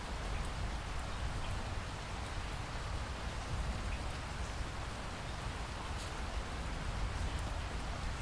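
Steady rain falling, an even hiss with a low rumble underneath and scattered drops ticking.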